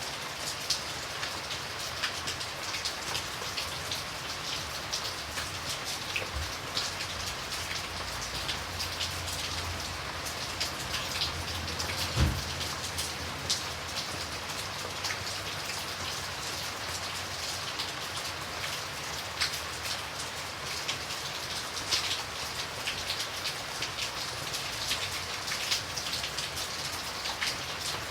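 Steady rain falling on a surface, a constant hiss dotted with many separate drop hits. About twelve seconds in there is a single dull low thump.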